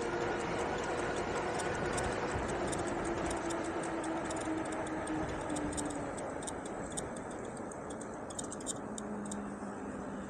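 Engwe Engine Pro e-bike riding along: a steady rush of wind and rolling noise with rapid, irregular ticking, and a humming tone that sinks slightly in pitch and fades around the middle, with a lower hum near the end.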